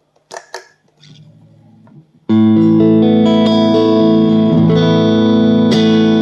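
HSS electric guitar: a few clicks and faint low notes, then about two seconds in a loud strummed chord that rings on, with the chord changing twice.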